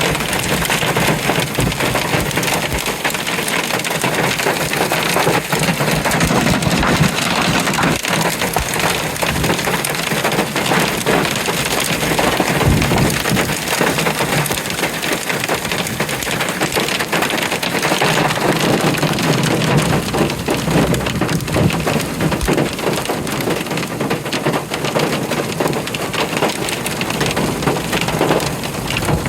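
Heavy rain and hail pelting down in a storm: a loud, steady, dense clatter of many small impacts.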